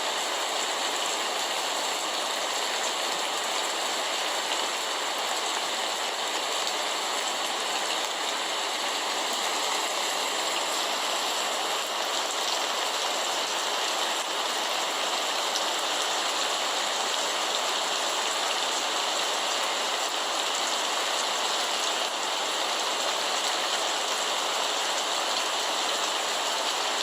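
Steady rain falling, an even unbroken patter.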